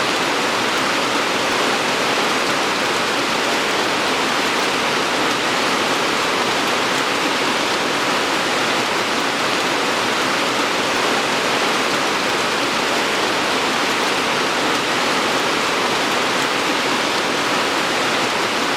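Steady rain falling, an even, unbroken hiss with no single drops, thunder or other events standing out.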